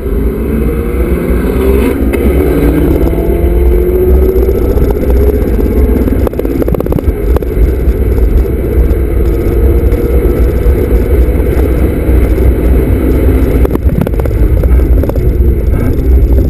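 Honda Civic Type R (FD2)'s 2.0-litre four-cylinder engine pulling hard under acceleration, heard from inside the cabin, its pitch rising over the first few seconds, over a heavy low rumble of road and tyre noise. A couple of sharp knocks come through about six seconds in and near the end.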